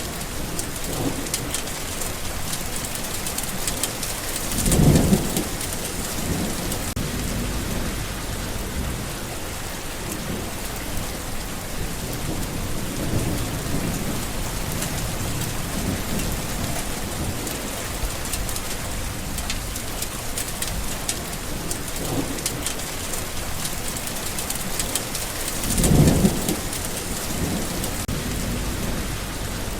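Steady heavy rain falling, with rumbles of thunder; the two loudest peals come about five seconds in and again near the end.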